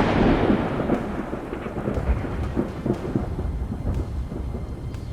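Thunder: a loud sudden crack right at the start, then a long rolling rumble with irregular swells that slowly fades.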